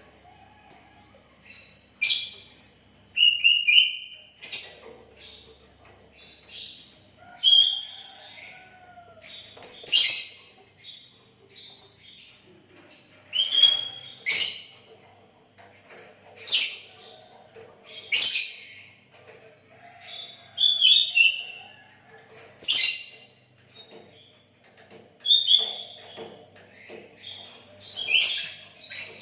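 Sooty-headed bulbul (kutilang) singing steadily: short, bright whistled calls repeated about every one to two seconds.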